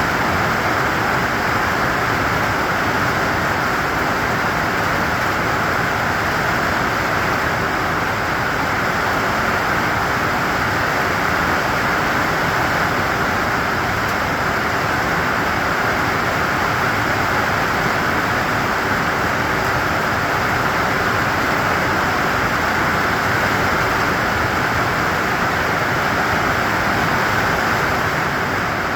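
Steady rain making an even, unbroken hiss, with no single drops or other sounds standing out.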